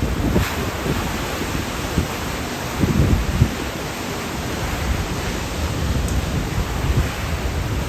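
Typhoon wind, a steady rushing noise with repeated low gusts buffeting the microphone.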